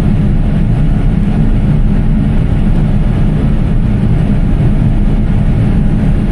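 Engine of the cotton harvest machinery running steadily: a dense, even low rumble with no change in level.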